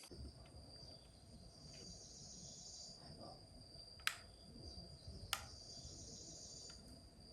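Faint steady high-pitched trill of crickets, with two sharp clicks about four and five seconds in.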